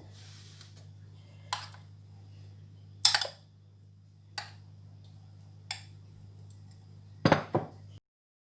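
Spoon clinking and knocking against a bowl and pan while tomato sauce is spread on rolled-out pizza dough: a handful of separate clinks a second or more apart, the loudest near the end, over a steady low hum. The sound cuts off abruptly just before the end.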